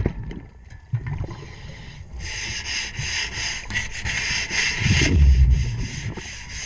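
Underwater sound: a scuba diver's exhaled bubbles rushing and gurgling out of the regulator for a few seconds, with a few low thuds.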